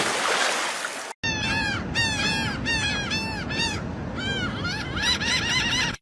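A burst of noise for about a second, then a bird calling over and over in short, arched calls, several a second, growing denser near the end.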